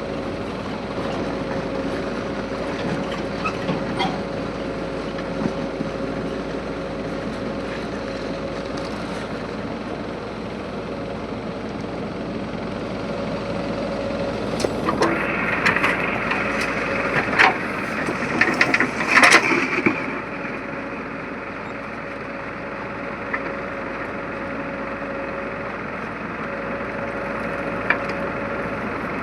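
JCB 3DX backhoe loader's diesel engine running steadily. A stretch of clanks and knocks comes about halfway through, with the engine sound rising and strengthening at the same time.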